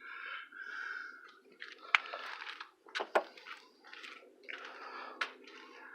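Rustling and scraping handling noise, broken by a few sharp clicks and knocks, over a faint steady low hum.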